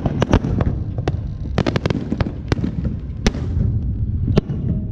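Fireworks going off: a string of sharp bangs and pops at irregular intervals, including a quick run of several pops about a second and a half in, over a constant low rumble.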